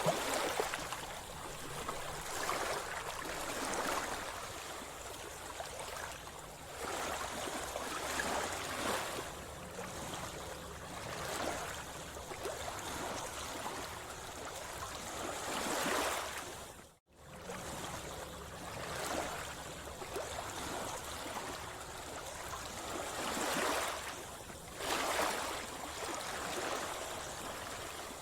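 Sea water sloshing and splashing close by, swelling in irregular surges every few seconds. The sound cuts out for an instant about two-thirds of the way through.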